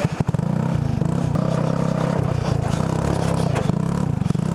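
Go-kart engine running steadily under load as the kart drives over rough ground, with a few knocks and rattles of the chassis right at the start.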